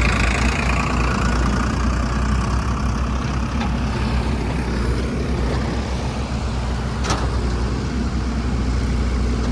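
Heavy diesel machinery engine running steadily, with a short click about seven seconds in.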